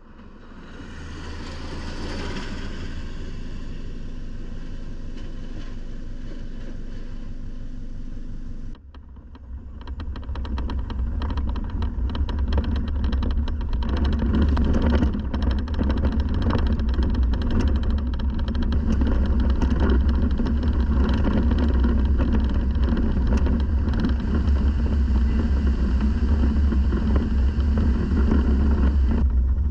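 4WD ute driving, a steady rumble of engine and tyres. About nine seconds in the sound cuts to a louder, rougher rumble with constant rattling.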